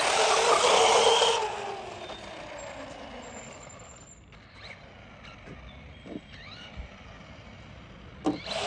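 Electric radio-controlled car running hard: a loud burst of motor whine and tyre noise for the first second and a half, then a whine that falls in pitch as the car slows or moves off, leaving quieter faint noises until a sharp loud sound near the end.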